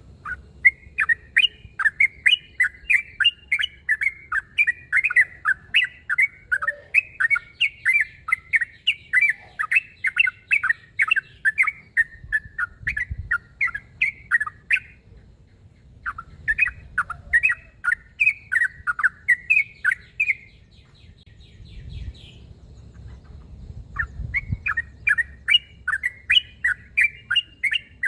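Yellow-vented bulbul (trucuk) singing in a territorial, rival-challenging state: long runs of quick, chattering notes, about three a second, broken by two short pauses.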